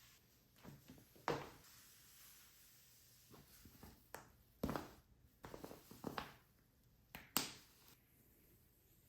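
Unboxing handling noises: a scattering of light knocks, clicks and short rustles of packaging and parts being moved and set down, the sharpest knocks a little over a second in, near the middle and about three-quarters of the way through.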